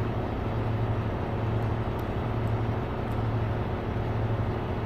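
Heavy tow truck's diesel engine running at a steady idle, an even low drone.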